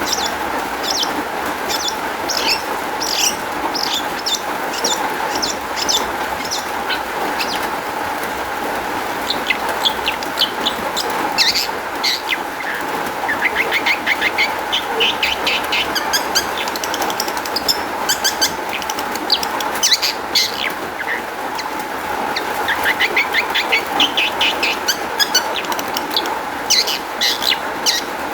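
Long-tailed shrike singing a fast, varied song of short sharp notes and rattling trills, a rich mimicry-filled song. A steady background hiss runs underneath.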